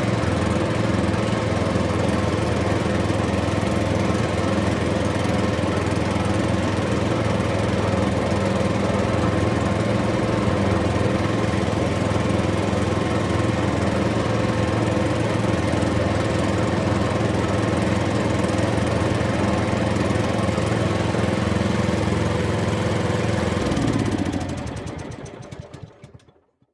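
Engine running steadily with an even drone, then cutting off near the end and dying away over two or three seconds.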